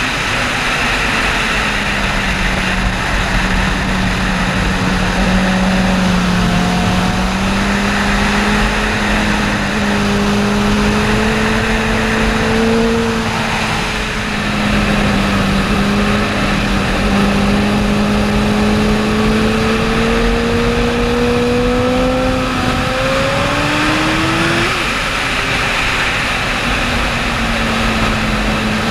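Sport motorcycle engine running at track speed, its pitch drifting slowly up and down through long pulls, with a quick rise in pitch and a drop near the end. Heavy wind rush over the onboard microphone throughout.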